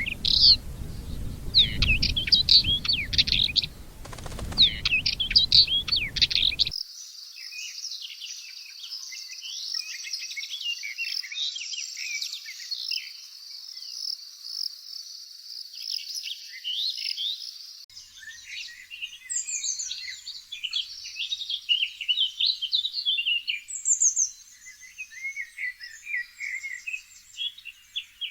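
Birds chirping and singing in three separate recordings joined back to back. First come short bursts of quick chirps over a low background rumble. About 7 seconds in it cuts to a dense, unbroken chorus of high twittering from many birds, and about 18 seconds in to more varied calls, some sliding down in pitch.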